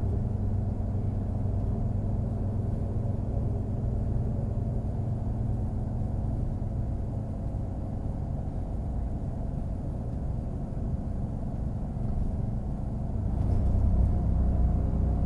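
Class 642 diesel railcar running with a steady low engine drone and rumble, growing louder about three-quarters of the way through.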